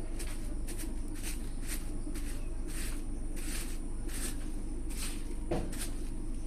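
Milk squirting into a pail as a buffalo is milked by hand, a hissing spurt about twice a second over a low steady hum.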